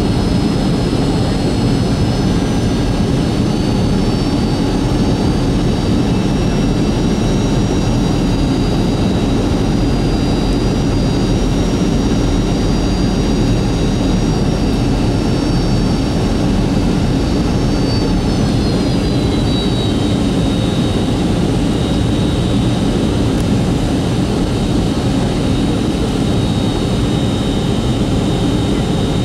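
Boeing 757-200's Rolls-Royce RB211 turbofans heard inside the cabin on approach: a steady roar with several high engine whines that slide down in pitch about two-thirds of the way through as thrust is eased.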